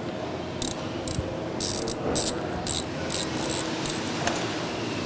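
Allen wrench turning flathead screws out of a metal machine block: a run of about ten short, high-pitched scrapes and clicks over a steady background hum.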